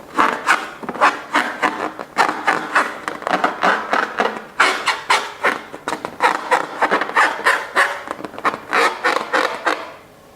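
Slime being squeezed and kneaded by hand: a run of irregular wet crackles and squelches, about three a second, that stops shortly before the end.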